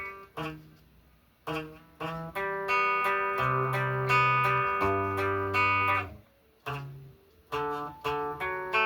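Guitar chords played in stop-start phrases: a few short chords, a longer ringing passage in the middle, then two more short chords, with brief gaps as the player struggles to get back into an awkward chord shape.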